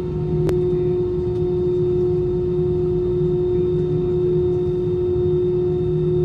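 Airliner cabin drone heard from a passenger seat: a steady hum with a low rumble under it, from the aircraft's engines and air systems. A single sharp click about half a second in.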